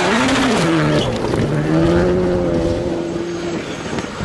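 A Rally1 rally car's turbocharged 1.6-litre four-cylinder engine running hard on a stage. Its note dips and bends in the first second, holds steady for about two seconds, then fades near the end.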